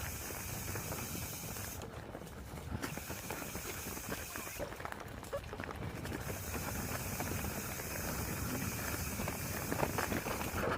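Mountain bike rolling over a rough dirt trail: a steady rustle of tyres on ground with many small rattles and clicks.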